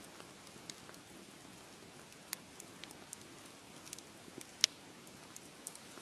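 Wood fire crackling in a fireplace: a low steady hiss with scattered sharp pops, the loudest a little past the middle.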